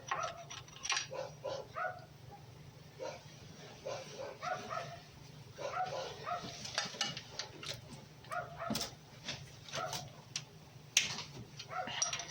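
A dog barking over and over in short yaps, with a few sharp clicks in between.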